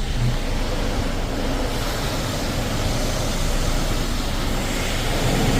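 High-pressure rinse water spraying against a truck's body and windows in an automatic car wash, heard from inside the cab: a steady, even hiss.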